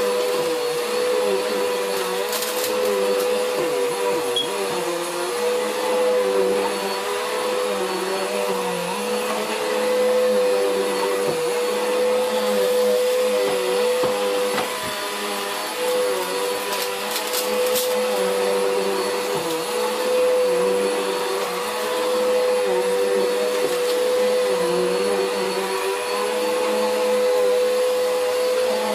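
Vacuum cleaner motor running continuously with a steady high whine, its lower hum wavering up and down in pitch.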